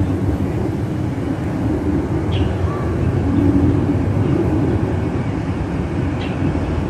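Steady low rumble of outdoor background noise, with a bird giving two short, faint calls, about two seconds in and again near the end.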